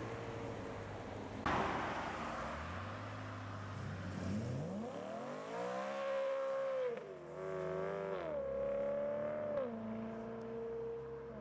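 BMW car engine accelerating past, its pitch climbing, dropping sharply at a gear change about seven seconds in, then rising again and holding before easing off near the end.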